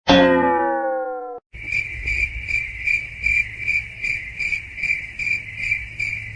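A single ringing struck tone with many overtones dies away over about a second and a half. Then crickets chirp steadily, about two to three chirps a second, over a low hum.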